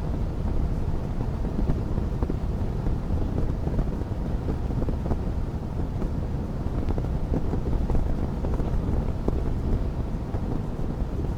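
Wood fire crackling in a fireplace: a steady low rumble of flames with frequent small crackles and pops scattered throughout.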